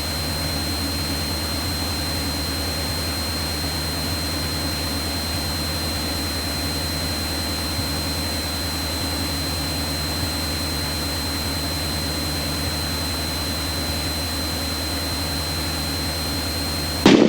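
Light single-engine piston airplane's engine and propeller droning steadily in the cockpit, with cabin hiss and a faint steady high whine over it.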